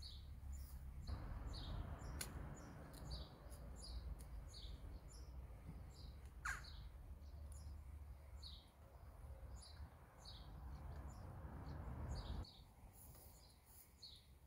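Small birds chirping over and over, short high chirps about one or two a second, with a steady hiss underneath from about a second in that cuts off abruptly near the end.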